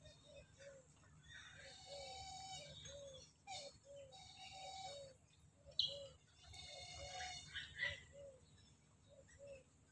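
Birds calling: a short low note repeated two or three times a second throughout, with three longer calls laid over it and a sharp click about six seconds in.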